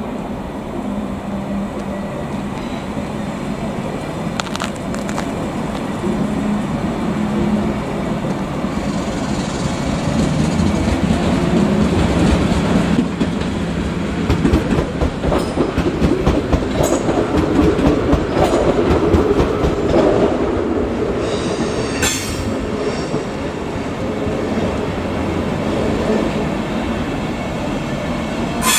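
A train running through the station, its wheels clacking over the rail joints. The sound builds to its loudest about halfway through and then eases off, with a few brief high squeals from the wheels.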